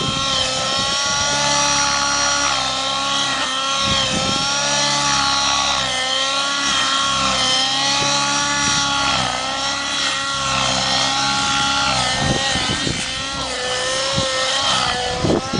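T-Rex 700 nitro RC helicopter in 3D flight: the glow engine's whine and the rotor's drone, the pitch swelling up and down again and again.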